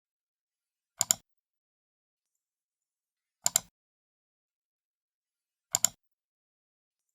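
Computer mouse left button clicked three times, about two and a half seconds apart. Each click is a quick pair of sharp clicks, the button pressed and then released.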